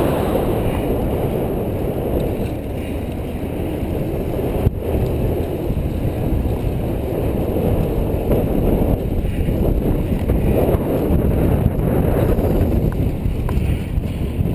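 Wind rushing over the microphone of a camera on a moving road bike, a steady loud buffeting with road noise beneath it, broken by a brief click about five seconds in.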